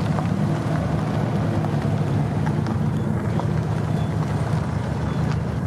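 A vehicle engine running steadily at a low, even speed, with no revving.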